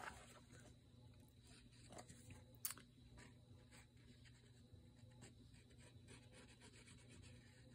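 Near silence with faint light rustles and taps of paper and craft materials being handled on a desk, and one slightly sharper click about two and a half seconds in.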